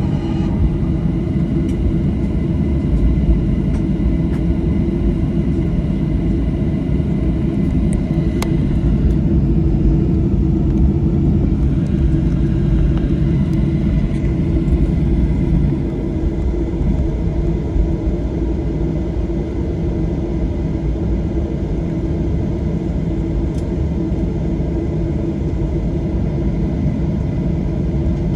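Steady low rumble inside the cabin of a Boeing 737-800 on the ground, its CFM56 engines running at idle, with a single sharp click about eight seconds in.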